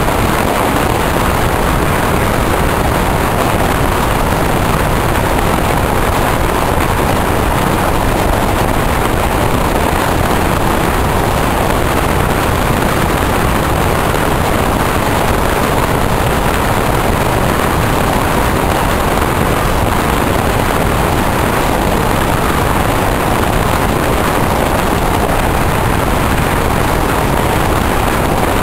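Steady, loud rush from a moving electric passenger train: running noise and air rushing past the open window.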